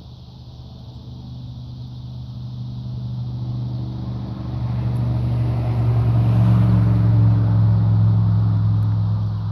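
A low, steady engine hum that grows louder over about seven seconds, then eases slightly near the end.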